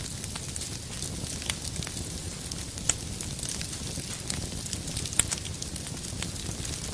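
Wood fire burning, with a steady low rumble and scattered sharp crackles and pops from the firewood, two of them louder, about three and five seconds in.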